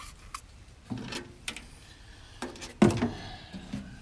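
A few knocks and rustling scrapes as an HVAC duct hose is twisted and pulled off its vent fitting, the loudest knock a little before three seconds in.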